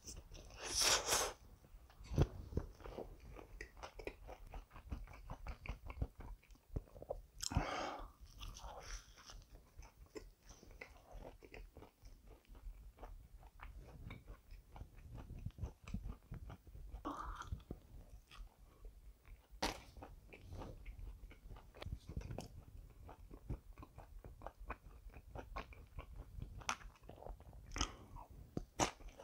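A person biting and chewing cheese-stuffed pizza crust: a steady run of small crunching clicks, with a few louder bites along the way.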